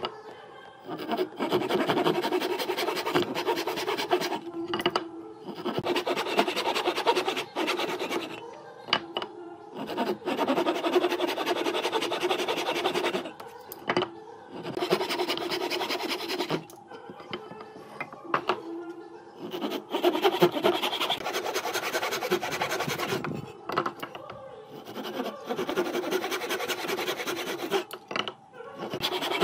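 A handheld power tool working wood in runs of a few seconds at a time, with short pauses between passes. A steady motor hum runs under a rough, rasping scrape.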